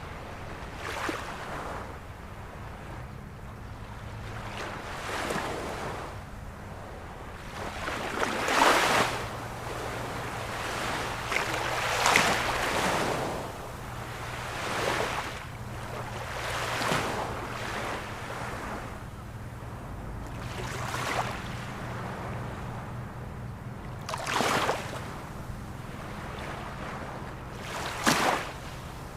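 Ocean waves breaking and washing on the shore, surging in swells every few seconds, loudest about a third of the way in. A faint low steady hum runs underneath.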